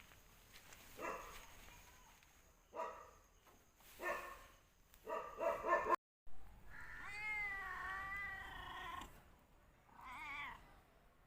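Domestic cat meowing: several short meows, then after a sudden break one long wavering meow and a shorter one near the end.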